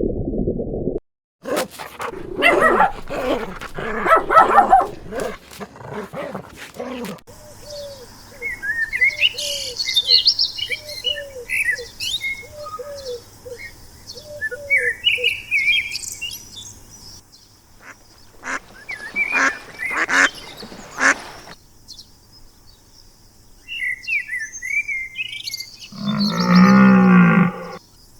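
A run of different animal calls: many small birds chirping through the middle and near the end, with a row of short repeated calls and, shortly before the end, one loud, low-pitched call lasting about a second and a half.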